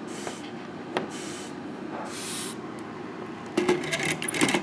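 Solder flux sizzling under a soldering iron in three short hisses, followed near the end by a quick run of small clicks and taps.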